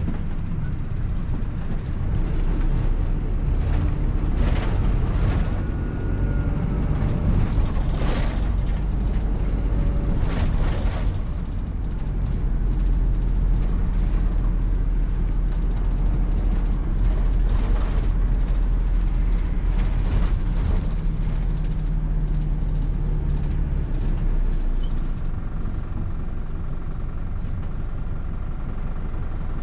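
City bus under way: a steady low engine and drive drone that rises and falls in pitch with speed, with short rattles and knocks through the first ten seconds or so.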